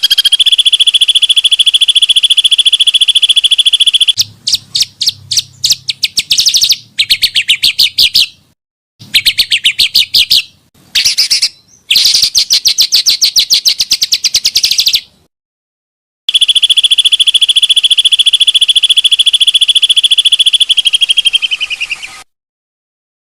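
Small songbirds singing fast, harsh trills and rattling runs of repeated notes, some held as a long steady rolling trill for several seconds. The song stops dead several times, as if cut and spliced.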